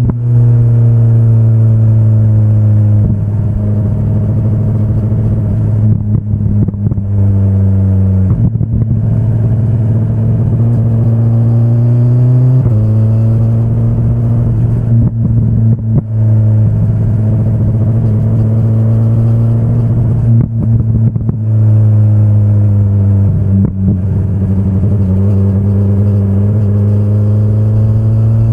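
2025 BMW S1000RR sportbike's inline-four engine under way on a mountain road, its pitch rising and falling with the throttle. Several sudden steps in pitch and brief dips in loudness come as the rider closes the throttle and changes gear.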